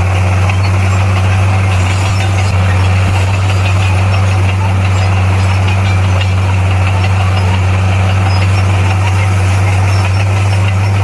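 Heavy diesel engine of earthmoving machinery running steadily at a constant speed, a loud unchanging low hum.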